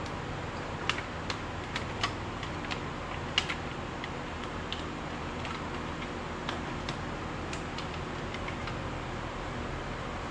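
Scattered light clicks and taps, about a dozen, over a steady background hiss, the sharpest about three and a half seconds in.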